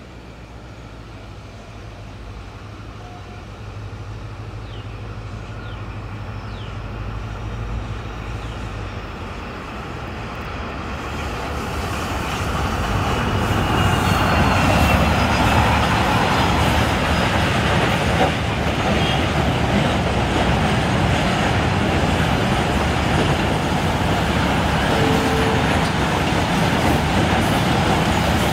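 WDG4 diesel-electric locomotive approaching with a steady low engine drone that grows louder. About halfway through it passes, and the wheels of a long train of loaded flat wagons roll by with a steady, loud noise.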